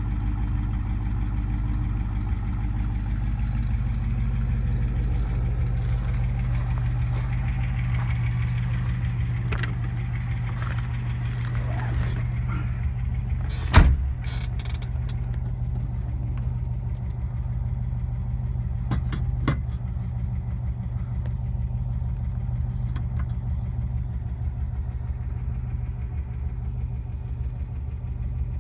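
1957 Rambler Rebel's 327 V8 idling steadily, heard first behind the car near the exhaust and then from inside the cabin. A single sharp thump about halfway through is the loudest moment, with a few light clicks soon after.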